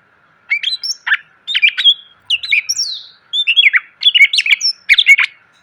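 Green leafbird (cucak ijo) singing a fast, varied song of whistles, chirps and quick glides, delivered in several short bursts. It starts about half a second in and stops shortly before the end.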